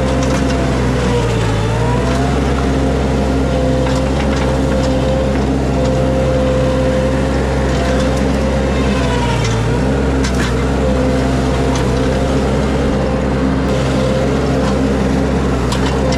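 Mini skid steer engine running steadily at work, its pitch sagging briefly twice as it takes load, with a few metallic clanks.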